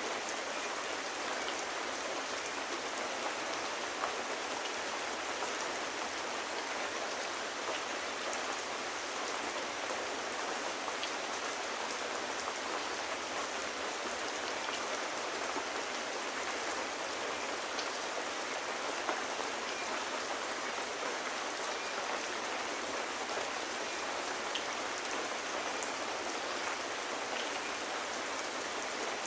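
Steady, gentle rain falling, an even hiss with a few faint clicks scattered through it.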